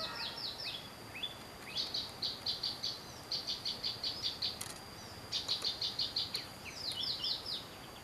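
Perenjak, a small songbird, calling repeatedly from the shrubs: quick bursts of five to eight sharp high chirps, several times over, with a few downward-sweeping notes at the start and near the end.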